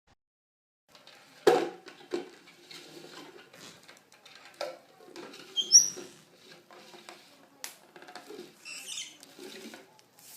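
Baby parrot giving a few short, high, squeaky chirps amid rustling and light taps and knocks, with a sharp knock about a second and a half in.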